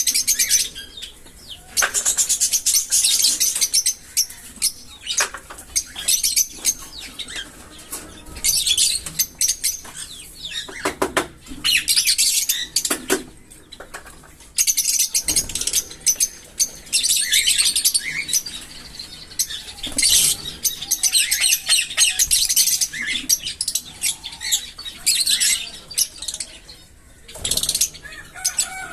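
Small pet parrots chattering in repeated bursts of rapid, high-pitched chirps, each burst a second or two long.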